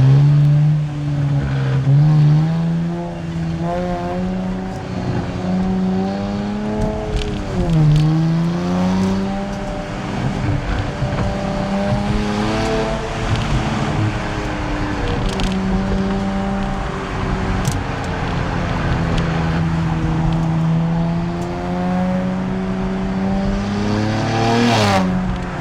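Nissan Z Nismo's twin-turbo 3.0-litre V6 running through a Nismo track exhaust while driving, its pitch climbing and falling with throttle and gear changes. There is a clear dip and recovery about a third of the way in, and a sharp drop near the end.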